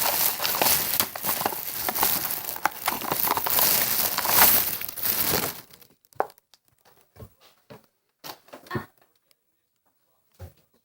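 Plastic toy packaging crinkling and being torn open for about five and a half seconds, then stopping, followed by a few scattered light taps and clicks.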